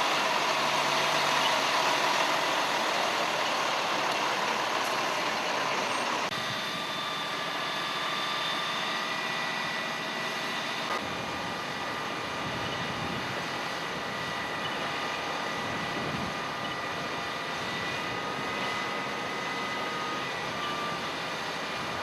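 Heavy emergency trucks running steadily, a mix of engine noise and steady high whines. The sound shifts abruptly about six seconds in and again near eleven seconds.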